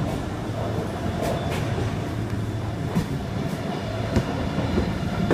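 Steady running rumble heard inside a moving Comeng double-deck electric train carriage, with a low hum and a few scattered sharp clicks and knocks.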